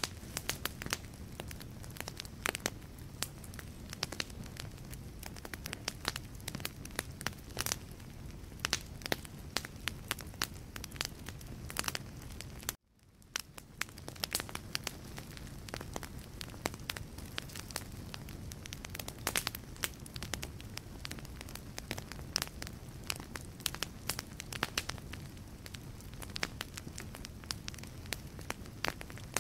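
Wood fire in a fireplace, logs crackling with frequent irregular sharp pops over a low, steady rush of flame. About 13 seconds in, the sound cuts out abruptly for a moment and fades back in.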